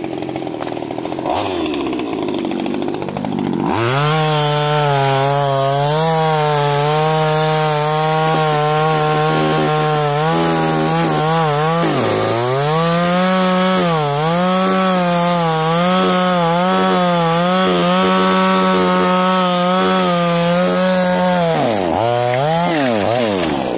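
Top-handle two-stroke chainsaw cutting angsana wood. It runs low for about four seconds, then goes to full throttle and holds a high, steady pitch. The pitch dips briefly a few times, and the saw eases off near the end.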